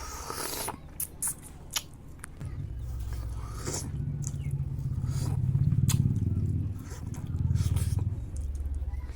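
Close-up chewing and mouth sounds of someone eating bayberries: short wet smacks and clicks throughout, over a low droning hum that comes in a couple of seconds in and is loudest in the middle.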